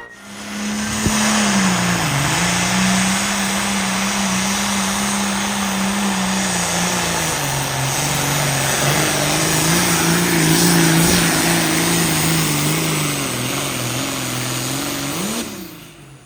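A pulling vehicle's engine runs hard under load on a sled pull. Its pitch dips about two seconds in, runs lower from about halfway on, and the sound cuts off sharply near the end.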